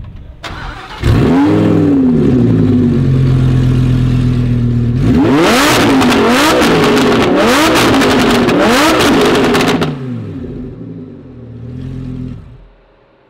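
Supercharged Lamborghini Huracán V10 through a loud aftermarket exhaust. It fires about a second in with a rev flare and settles to idle, then is blipped hard about five times in quick succession. It drops back to idle and shuts off near the end, loud enough that it "really hurt my ears."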